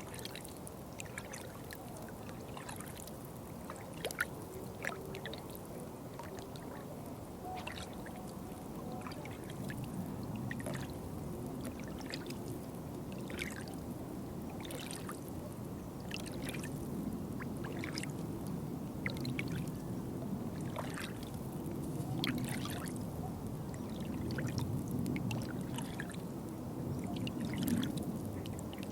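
Water trickling and pouring, a steady low wash with many small irregular splashes and drips on top.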